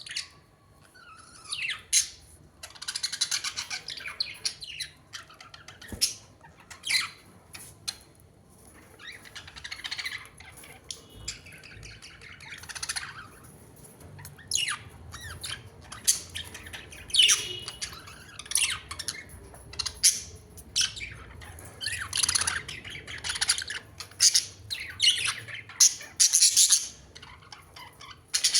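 Birds calling: a run of short, harsh squawks and chirps, coming irregularly every second or so.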